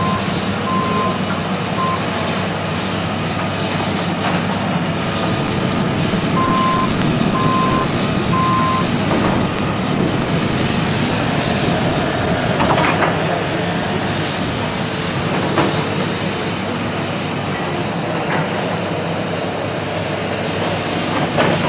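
Heavy construction machinery running steadily, with a back-up alarm beeping about once a second: a short run of beeps at the start and another of three beeps about a third of the way in.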